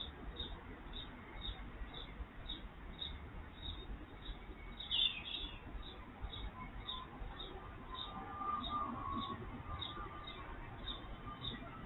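A bird calling with a short, high chirp repeated steadily about twice a second, with a brief flurry of chirps about five seconds in.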